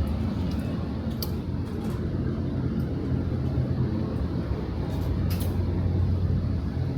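Steady low engine drone with a constant hum, with a few faint light clicks over it.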